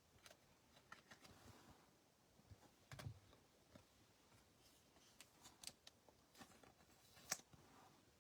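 Faint scattered clicks and light handling noises of trading cards and packs being sorted, with a soft thump about three seconds in and a sharper click near the end.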